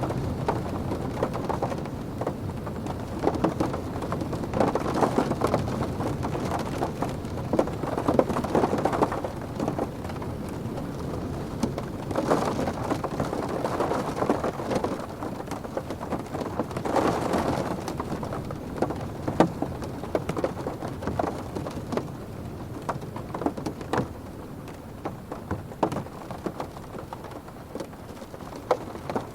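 Rain pattering on a car's roof and windows heard from inside the cabin, a dense patter of drop ticks over a steady hiss, with wind swelling the noise several times before it eases near the end.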